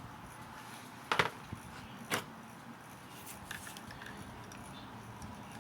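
Small model locomotive parts clicking and tapping as they are handled: a sharp click about a second in, another about two seconds in, then a few faint ticks.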